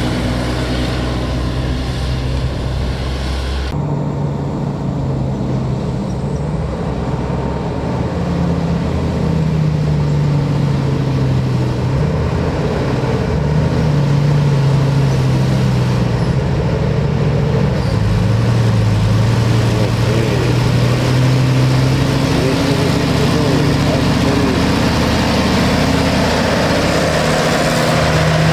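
Heavy diesel truck engine running, its pitch rising and falling slowly with the revs. About four seconds in, the sound changes abruptly.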